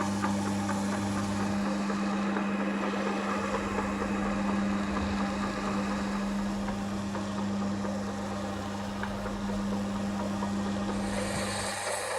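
Electric motor of a workshop machine running with a steady hum; near the end the hum cuts off and a brighter hiss takes over.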